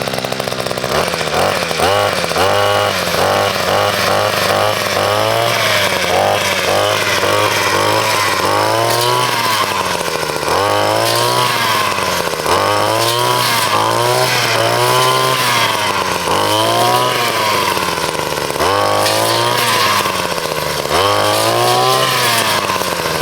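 Small chainsaw cutting brush, its motor pitch repeatedly climbing and dropping as it bites into branches: quick swings for the first few seconds, then longer swells every second or two.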